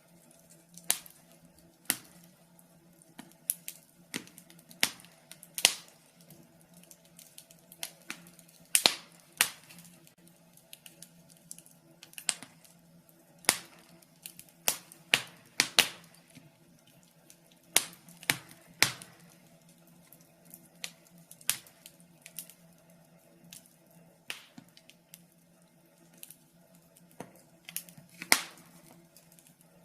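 Wood fire in a fireplace crackling, with sharp irregular pops and snaps at uneven intervals over a faint steady hum.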